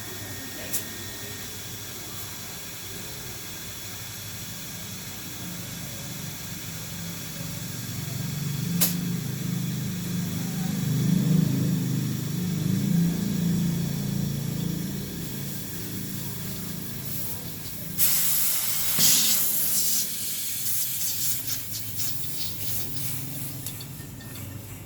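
Pressurised gas hissing steadily during refrigerator repair work, with a low rumble swelling in the middle and a sudden louder hiss about three-quarters of the way through.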